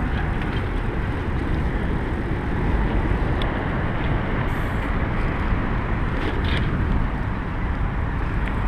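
Steady rushing wind noise on the microphone of a camera riding along on a moving bicycle.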